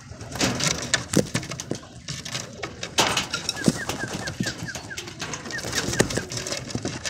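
Racing pigeons at the loft trap: a steady scatter of sharp flutters and knocks as they land and move about, with cooing. From about three to six seconds in, a run of short high peeps repeats about three times a second.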